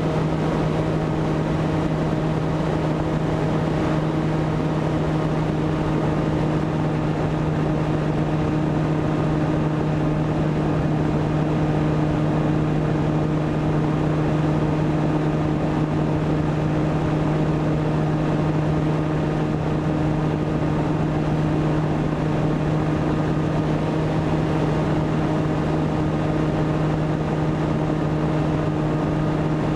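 Volantex Ranger EX RC plane's electric motor and propeller, heard from the airframe, running at a steady throttle as a constant hum with wind rush over it.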